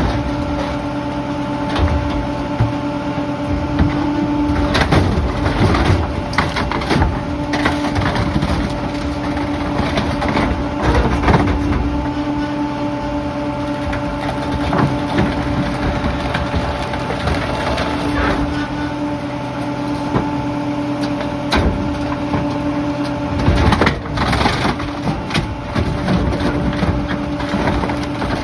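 Pak-Mor rear-loader garbage truck compacting bulky flood debris: a steady hydraulic whine that drops out briefly a few times, under repeated cracking and crunching as wood and household items are crushed.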